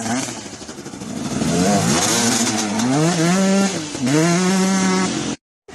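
Dirt bike engine revving, its pitch climbing and dropping several times, held high for about a second at a time. It cuts off abruptly near the end.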